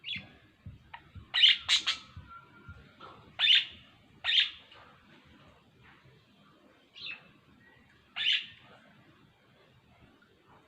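Pet birds chirping: about seven short, sharp calls at irregular intervals, the loudest close together between one and five seconds in, then two more later on.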